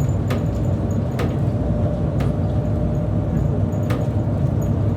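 Steady low rumble of a moving road or rail vehicle heard from inside the cabin, with a few sharp clicks or rattles about a second apart.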